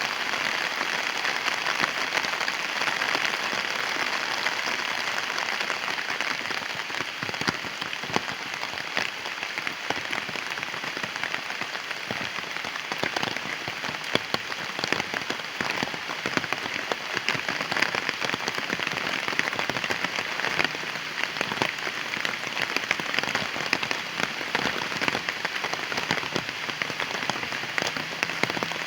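Heavy rain falling, a steady dense hiss with many sharp drop impacts scattered through it.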